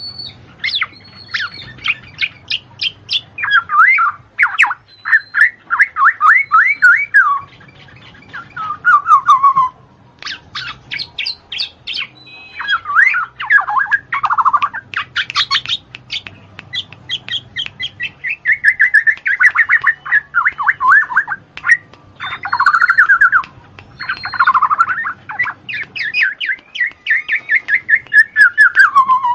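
Birds singing in fast, repeated trills and warbling chatter, phrase after phrase with only brief pauses.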